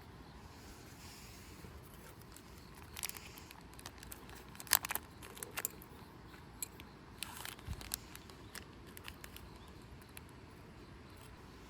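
Scattered light clicks and knocks over a quiet background, clustered about three to five seconds in and again around seven to eight seconds, with one dull low thud near the end of that second cluster.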